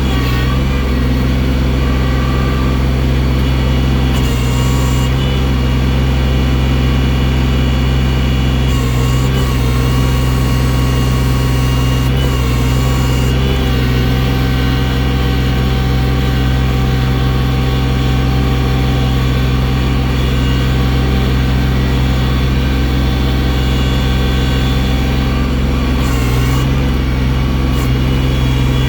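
Tractor engine running steadily at working revs, its pitch shifting slightly a few times.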